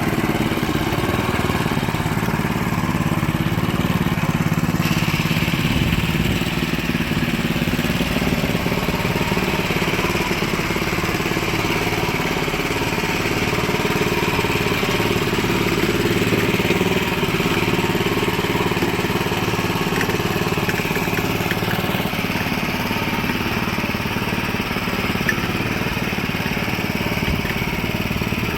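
Small engine of a self-propelled boat trailer running steadily.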